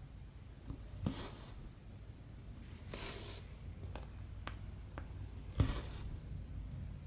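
Embroidery needle and cotton thread pulled through cross-stitch fabric: three short swishes of thread being drawn through, the last the loudest, with a few light ticks of the needle in between.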